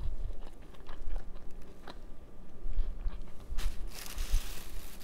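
Close-up chewing of a soft bread sandwich: mouth noises with small wet clicks and soft thumps, and a brief hiss about three and a half seconds in.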